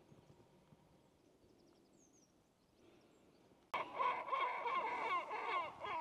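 Birds calling: a few faint high chirps, then about two-thirds of the way in a loud burst of busy, overlapping calls that starts suddenly.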